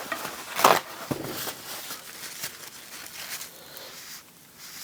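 Handling noises at a work table: a sharp knock just under a second in, then scattered light clicks and rustling.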